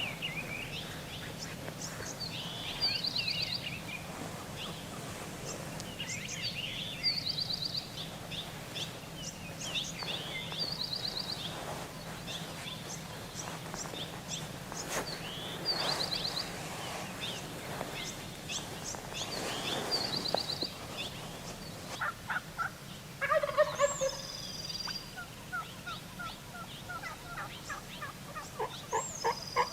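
Gould's wild turkey gobbler gobbling over and over, a rattling gobble about every four seconds. Near the end other bird calls take over, including short repeated notes and two falling whistles.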